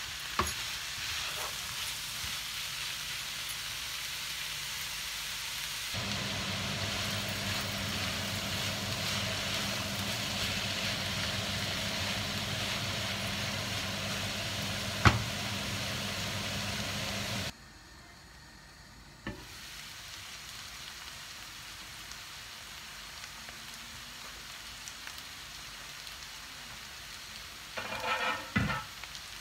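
Spinach and boiled potato sizzling in hot oil in a non-stick wok, stirred with a wooden spatula. A low steady hum joins for a stretch in the middle, with one sharp tap about halfway; after a brief dropout the sizzle carries on more quietly.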